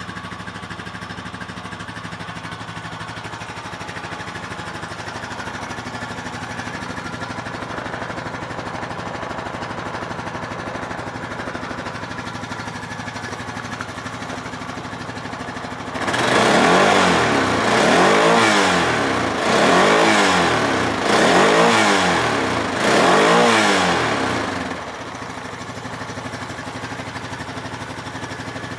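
Honda TRX420 ATV's single-cylinder four-stroke engine idling steadily. About sixteen seconds in, it is revved five times in quick succession, each rev rising and falling. It then settles back to idle.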